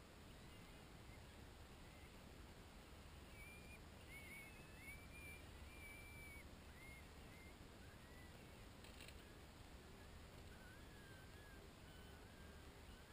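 Near silence, with faint, short, high chirps from a small bird scattered through the middle and later part, and a single soft click about nine seconds in.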